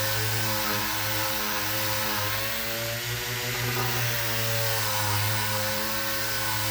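Electric power sander running steadily with a hum and hiss, its pitch dipping slightly a couple of times as it is pressed onto the work.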